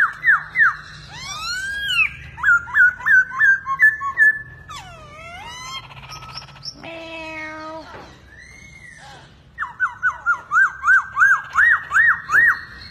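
Caged songbirds singing: fast runs of clear, sweeping whistled notes repeated several times a second, mixed with trills and varied gliding phrases, and a lower, drawn-out call about seven seconds in.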